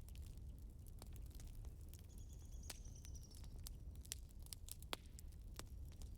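Wood fire crackling: irregular sharp pops and snaps over a soft low rumble of burning logs. A faint thin high whistle sounds for about a second and a half from about two seconds in, sinking slightly.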